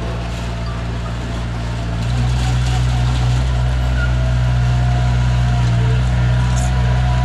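Diesel engine of heavy earthmoving equipment running steadily, getting louder about two seconds in.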